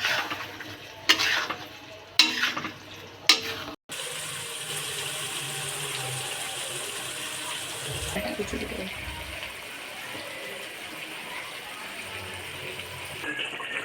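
Four sharp knocks of kitchen utensils, then a steady rushing of water running from a kitchen tap.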